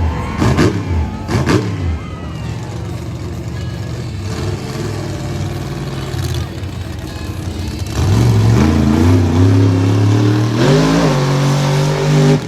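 Monster truck engine revving: two sharp throttle blips in the first couple of seconds, then after a quieter stretch it comes in loud about two-thirds through, its pitch climbing in steps as it accelerates.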